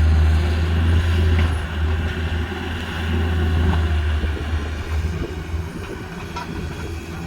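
An engine running steadily with a deep, low rumble.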